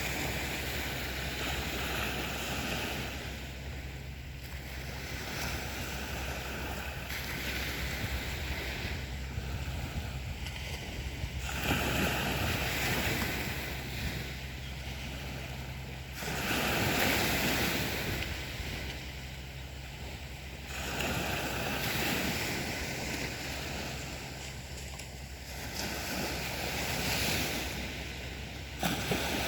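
Sea waves breaking on a beach, the surf swelling and washing back every few seconds.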